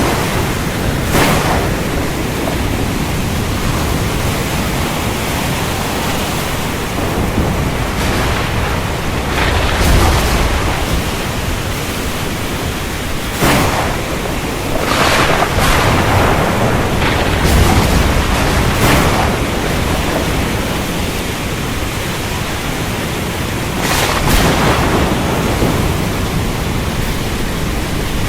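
Thunderstorm: steady rain noise with thunder cracking and rumbling several times.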